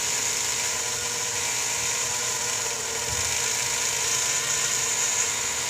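Dremel rotary tool with a felt buffing tip running with a steady whine, buffing polish onto an engine's cooling fins.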